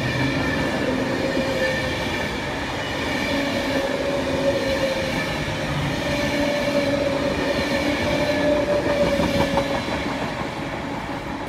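Electric multiple-unit passenger train moving slowly through the station, its traction motors whining in steady tones over the rumble and clatter of the wheels on the rails.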